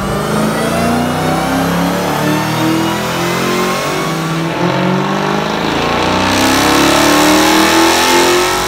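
Hemi V8 car engine at full throttle on a chassis dyno, its pitch rising steadily as it pulls up through the revs. There are two pulls, the second one louder toward the end.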